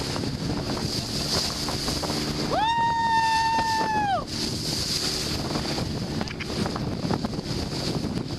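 Heavy wind buffeting the microphone and water rushing along a Sprinto sailboat in about 30 knots of wind. About two and a half seconds in, a person gives one long high yell, held for about a second and a half, rising at the start and dropping away at the end.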